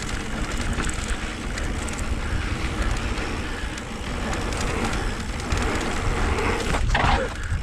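Wind buffeting an action camera's microphone over the rumble of mountain-bike tyres rolling on a dirt trail at speed, with a short sharp sound near the end.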